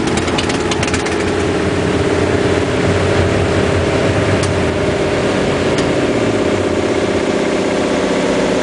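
2008 Big Dog K-9 chopper's V-twin engine, with an S&S 600-lift cam, S&S Dual Runner air cleaner and aftermarket pipes, running steadily on a chassis dyno for a test run. Its low rumble drops away about six seconds in while the engine keeps running.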